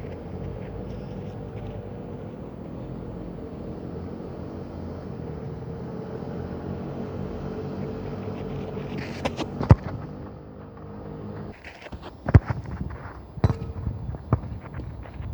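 A football being kicked: sharp thuds, a couple about two-thirds of the way in, then three more about a second apart near the end. Under them a steady engine hum that stops about three-quarters of the way through.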